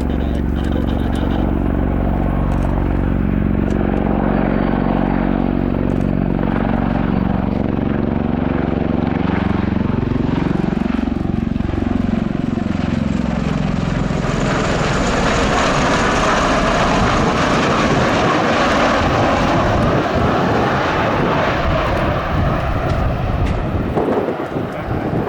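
Bell Boeing CV-22B Osprey tiltrotor hovering in: its two big proprotors make a loud, low, pulsing beat whose pitch sweeps and wavers around the middle. From about halfway a loud rushing hiss of turbine and rotor wash joins it.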